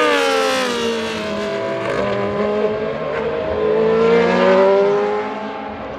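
Group C sports-prototype race car engine at speed. Its pitch falls over the first second, then climbs again as it swells to its loudest about four and a half seconds in, and eases off near the end.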